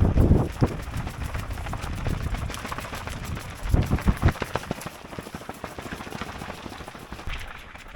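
Strong wind buffeting the microphone in gusts, low rumbling blasts near the start and again about halfway through, with a crackling rustle between them.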